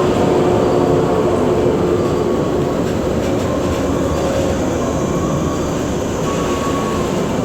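Electric train running along the rails, a steady loud rumble with short humming tones coming and going.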